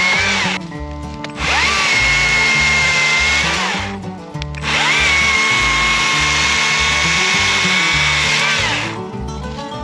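Electric drill running in three trigger pulls, the last about four seconds long. Each one spins up with a rising whine, holds a steady pitch and winds down. Background music with a steady beat plays throughout.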